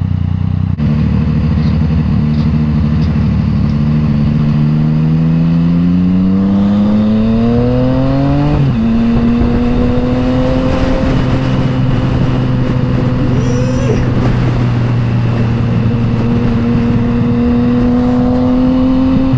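Yamaha MT-09's inline three-cylinder engine through an Akrapovič exhaust while riding: the revs climb steadily for about eight seconds, drop sharply with an upshift, then hold nearly steady with a slow rise until another drop at the very end.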